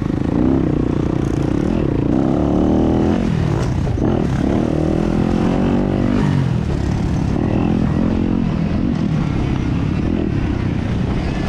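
2017 Yamaha YZ250FX's 250cc four-stroke single-cylinder engine being ridden hard, its pitch repeatedly rising and falling as the throttle is opened and shut.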